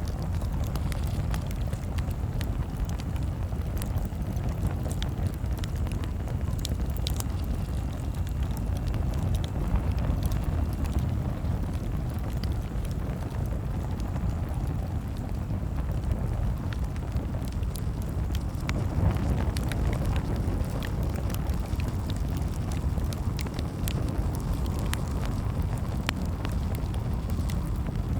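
Campfire crackling: scattered sharp pops and snaps over a steady low rumble of the flames.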